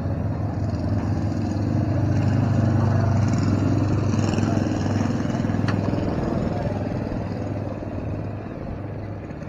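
Car engine running with a steady low drone, loudest a few seconds in and fading toward the end.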